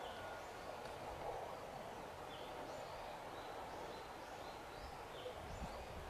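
Outdoor ambience: a steady background hiss, with a bird giving a run of short, high chirps about every half second through the second half.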